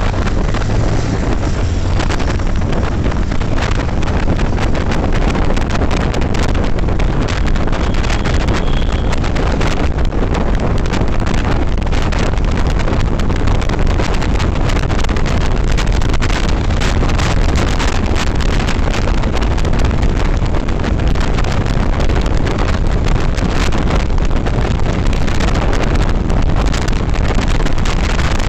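Loud, steady wind buffeting on the microphone of a moving motorcycle, with a continuous low rumble beneath it.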